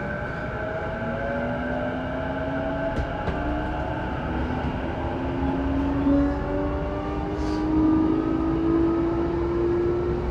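Saikyo Line electric train running, heard from inside the car: rumbling wheels on rail under the whine of the traction motors, which rises slowly in pitch as the train accelerates.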